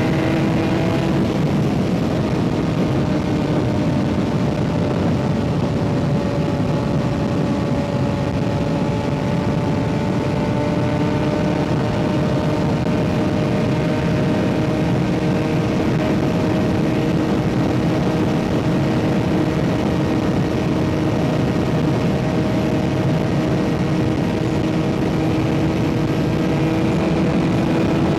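Kawasaki ZX-6R 636 inline-four with an M4 aftermarket exhaust, running at a steady cruising speed with wind rush. The pitch eases off slightly about a second in, holds level, then climbs a little near the end as the throttle opens.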